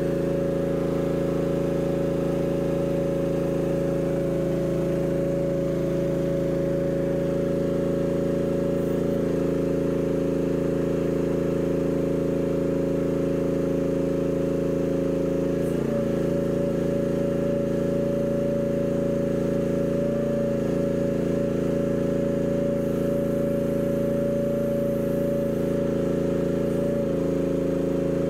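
Mini excavator's engine running steadily, its note shifting slightly a few times.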